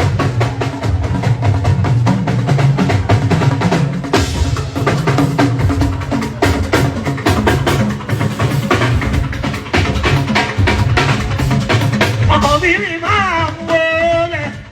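Fuji band percussion playing a dense, driving drum groove with heavy bass. A voice comes in singing briefly near the end.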